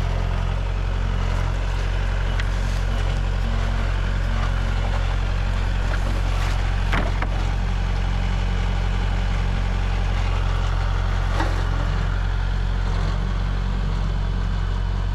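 Tractor engine running steadily at a constant speed, with a couple of sharp knocks or clanks partway through.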